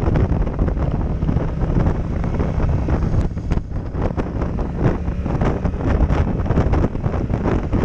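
Heavy wind buffeting on a helmet-mounted action camera's microphone during a motorcycle ride, with the Yamaha MT-07 Tracer's parallel-twin engine running steadily underneath.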